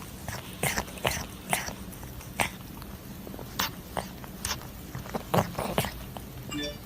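A pet making small noises: irregular soft clicks and snuffles, with a brief squeak near the end.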